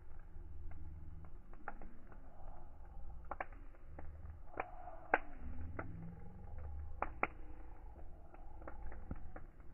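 Wood fire in a glass-fronted fireplace crackling, with irregular sharp pops over the low rumble of the flames.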